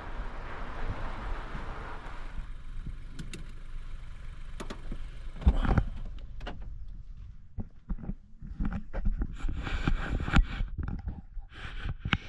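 A steady rushing noise that cuts off about two seconds in. Then scattered clicks, a single loud thump about halfway through, and a string of short rustling and knocking handling sounds.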